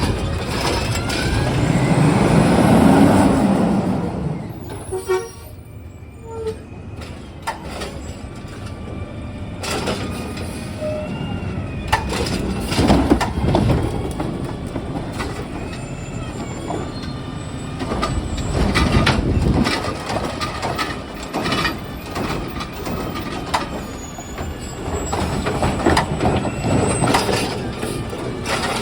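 Recycling truck with a long air hiss over the first few seconds, typical of air brakes. Then it runs on with mechanical knocks and clatter, and its engine swells twice.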